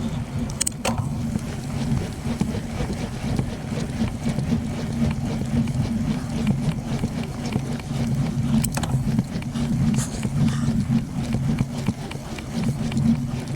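Steady wind buffeting and road rumble from riding a bicycle, with a few sharp clicks and rattles from the bike.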